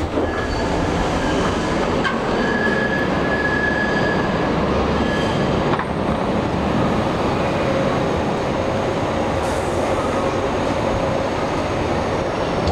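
A train running past on the track beside the platform, a loud steady rumble of wheels on rails that starts suddenly, with a high-pitched squeal through about the first half.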